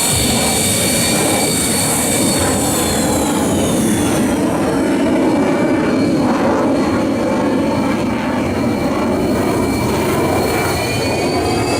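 Sukhoi Su-30MKM's twin AL-31FP turbofan engines running on the ground at idle: a steady jet rumble with a high turbine whine that drops in pitch a few seconds in and climbs again near the end.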